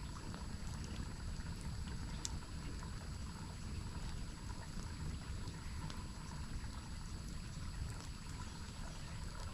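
Steady rushing of a waterfall, with a few sharp crackles from a campfire.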